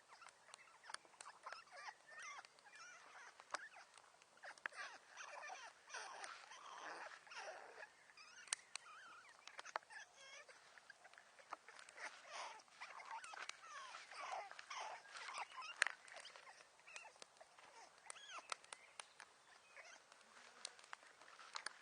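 Faint wood fire crackling, with many sharp pops and short squealing, whistling glides.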